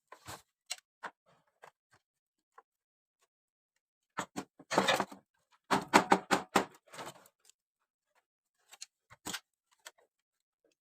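Scattered sharp clicks and light knocks from small hard objects being handled, with a clattering run of rattles and knocks about four seconds in that lasts some three seconds.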